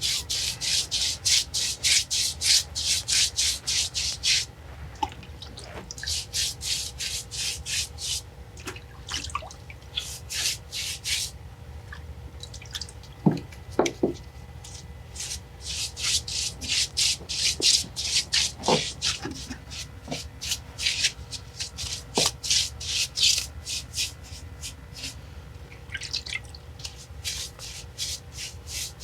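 Water being worked onto old brick and stone masonry to wet it down before mortaring: runs of quick, rhythmic wet scrubbing strokes, about four or five a second, with short pauses between runs, dripping water and a few light knocks.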